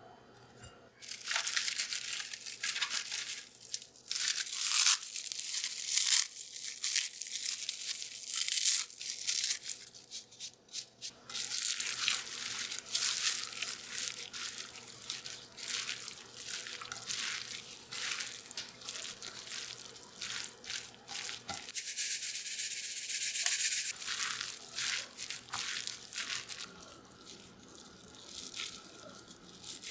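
Rapid scrubbing strokes of a small brush, rasping back and forth in quick bursts.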